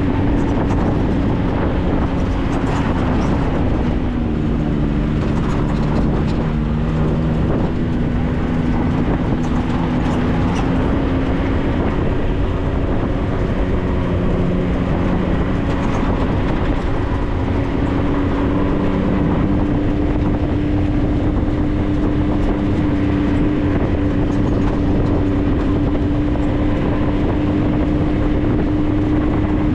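Can-Am Maverick side-by-side's engine running under way, its pitch drifting up and down gently with the throttle, over a steady rumble of the drive.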